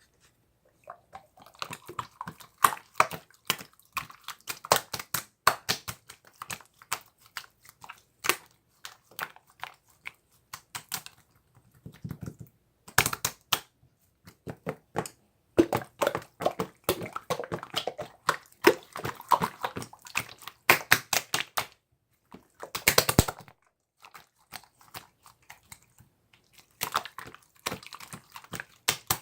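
Slime being worked by hand, making dense runs of small sticky clicks and pops, with a few short pauses.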